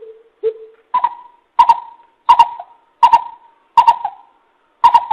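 Greater coucal calling: a series of deep hooting notes with sharp starts, the first few lower and the rest about an octave higher, spaced roughly every 0.7 seconds.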